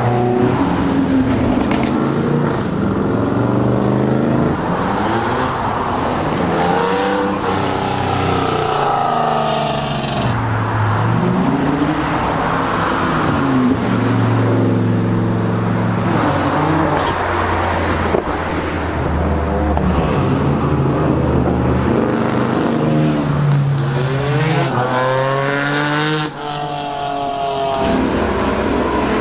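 Several cars accelerating hard past one after another, each engine note climbing in pitch, dropping at a gear change and climbing again. Near the end one engine briefly goes quiet, then revs up steeply.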